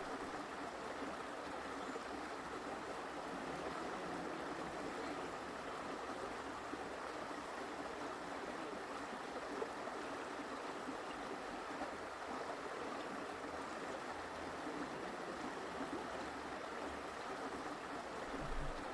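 Forest creek flowing: a steady, even babble of running water.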